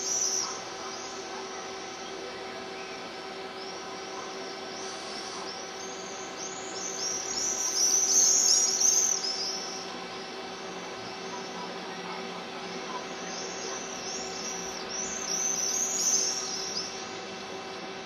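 Many high-pitched bird chirps, coming thickest about halfway through and again near the end, over a steady hum.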